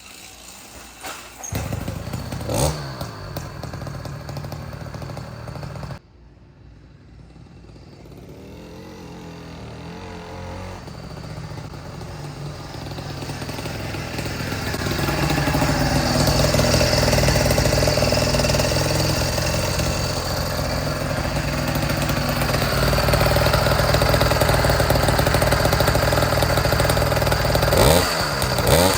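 Two-stroke motorized bicycle engine running, which the builder says runs good now. About six seconds in the sound drops off suddenly. It then grows louder over about ten seconds and holds steady, with the pitch rising and falling as the revs change.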